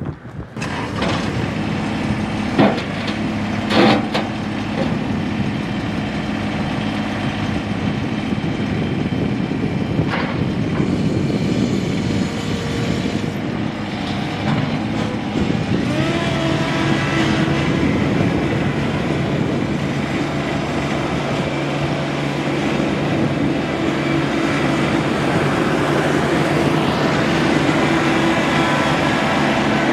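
Three-cylinder Yanmar diesel engine of a John Deere 2025R compact tractor running. There are two knocks a few seconds in, and about halfway through it settles into a steady, even drone.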